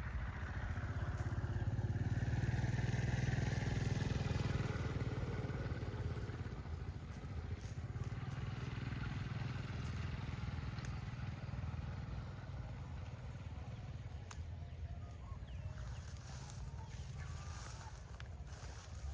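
A motor engine running steadily, growing louder a couple of seconds in and then slowly fading.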